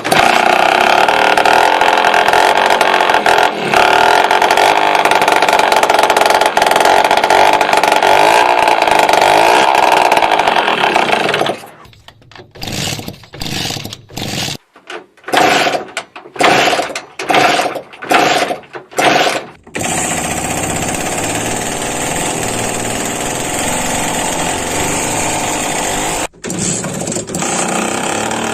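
An engine or motor-driven engine mechanism running steadily with a loud whine. It is then switched or revved in about eight short spurts, each under a second, and settles into steady running with a higher hiss.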